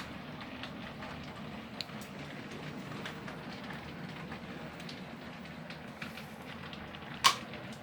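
Model train running along the layout track: a steady running noise with a few sharp clicks, the loudest near the end.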